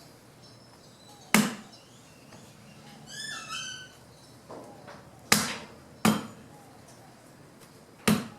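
Branch wood being chopped up by hand: four sharp chopping blows, two of them close together in the middle and the last near the end. A bird calls once between the first and second blows.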